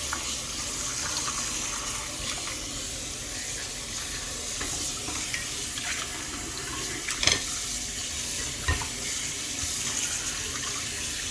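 Kitchen tap running into a sink while raw chicken leg pieces are rinsed under it, with a couple of brief knocks partway through.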